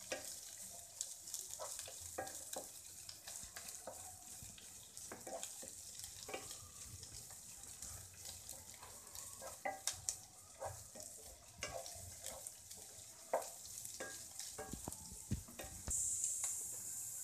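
Shredded cabbage and onion sizzling in hot oil in a pan over high heat, with scattered clicks and scrapes of the vegetables being stirred. The sizzle grows louder near the end.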